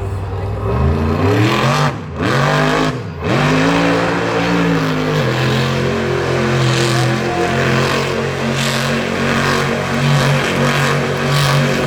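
Monster truck engine revving hard, climbing in pitch about a second in, with two brief throttle lifts around two and three seconds, then held at high revs.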